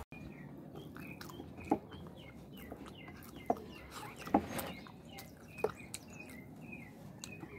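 Eating sounds: wet mouth smacks and chewing as food is eaten by hand, with four sharp smacks standing out. Small birds chirp over and over in the background.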